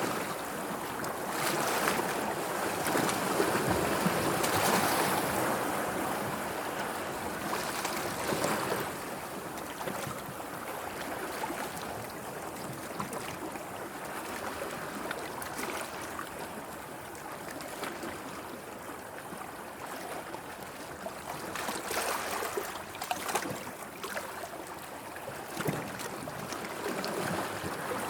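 Sea waves washing in: a steady rush of water that swells louder in the first few seconds, with a few short, sharper splashes near the end.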